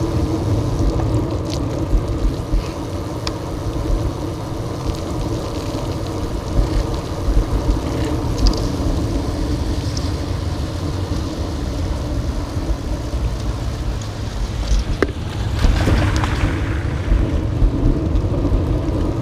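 Wind buffeting the microphone over road and traffic rumble while riding a bicycle in the rain; a hiss swells up about sixteen seconds in.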